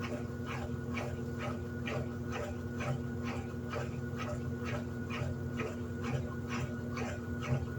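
Electrolux LED14 top-loading washing machine running: a steady motor hum with a short squeaky swishing stroke repeating about three times a second.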